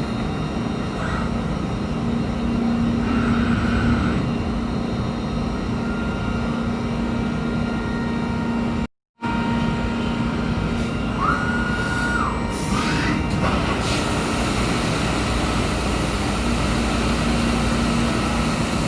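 Steady running noise of industrial machinery with a constant low hum, broken by a moment of dead silence about nine seconds in.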